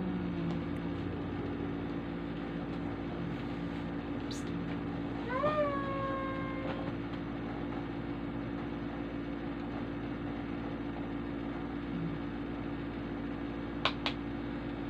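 A baby vocalizing: one drawn-out squeal about five seconds in that rises and then holds level, over a steady low hum. Two sharp clicks near the end.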